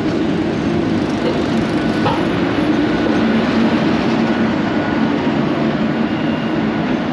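Standing MÁV passenger train, hauled by a 432-class electric locomotive, running with a steady, loud mechanical hum and rush.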